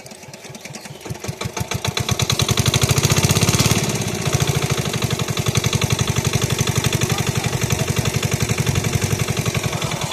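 A small engine running with an even, rapid pulse, growing louder over the first couple of seconds and then holding steady.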